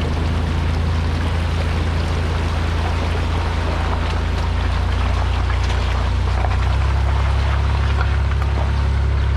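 A vehicle engine running with a steady low drone under a constant hiss. About two-thirds of the way through, the engine note shifts and grows stronger.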